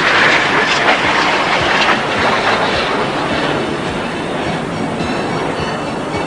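G-4 Super Galeb jets of an aerobatic synchro pair flying past with a steady turbojet roar. It is loudest about the first second and fades slowly over the next few seconds.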